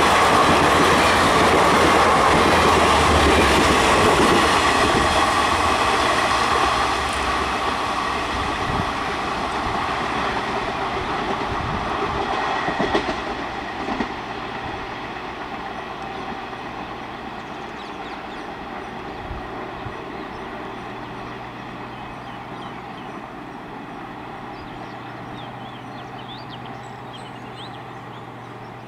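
Train running past, its wheels clacking over rail joints, loud for the first several seconds and then fading steadily as it moves away.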